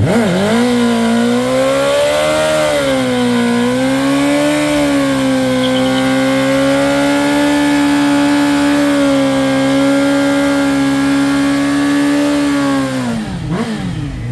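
1997 Suzuki GSX-R 600's inline-four engine held at high revs through a burnout. It revs up quickly at the start, wavers a little, then holds steady. Near the end it drops off, with a couple of short blips of the throttle.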